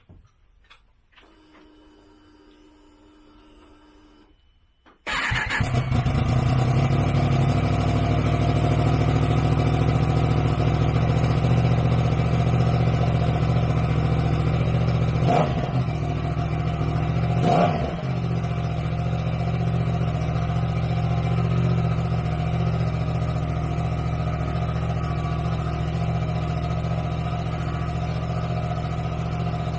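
Yamaha MT-10's crossplane inline-four, fitted with an SP Tadao PowerBox exhaust, starts about five seconds in and settles to a steady idle. It is blipped twice, briefly, a couple of seconds apart partway through, and again right at the end.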